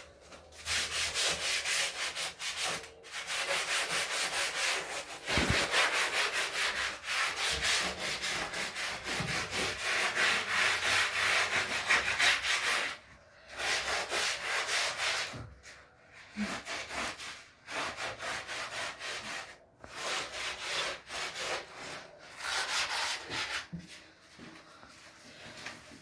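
Scrubbing by hand: quick, repeated rubbing strokes over a surface in runs of several seconds, broken by short pauses.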